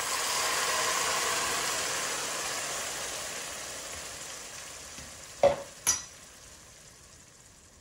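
Blended tomato-and-onion liquid poured into a pot of toasted fideo noodles in hot oil, sizzling hard at first and then dying down gradually. Two sharp knocks come about five and a half and six seconds in.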